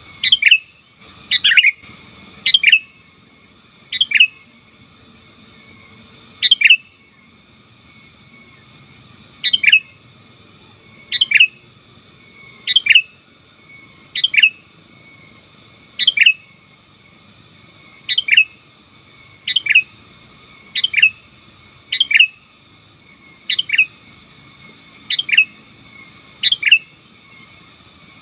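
Sooty-headed bulbul (kutilang) calling over and over in short, bright, loud phrases, about one every second and a half, some in quick pairs.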